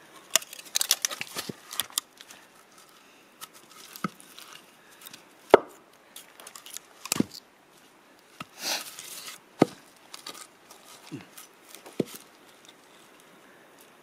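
Split firewood knocking and clattering as it is handled: scattered, irregular wooden knocks, the sharpest about five and a half seconds in.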